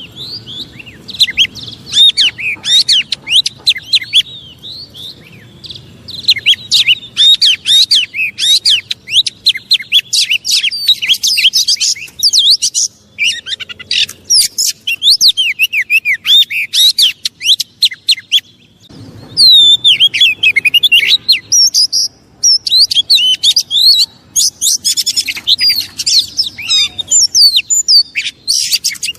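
Oriental magpie-robin (kacer) singing a fast, varied song of rapid whistles and chattering notes, with a few short pauses. It is the agitated song used as a lure to rile other magpie-robins into singing.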